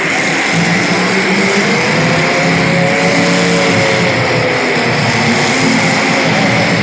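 Small race car engines running steadily on the track. A clear engine note rises and falls around the middle as a car passes close.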